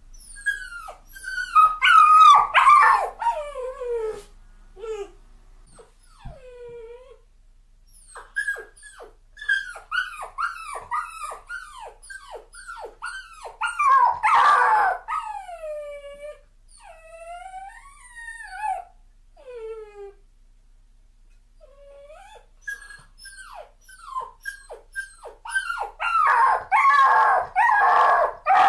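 Dog crying: short, high whining yelps that each fall in pitch. They come in bouts, with louder clusters about two seconds in, around fourteen seconds and near the end.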